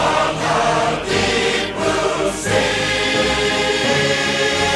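A chorus singing a rousing show tune over an orchestra, moving into a long held final chord in the second half.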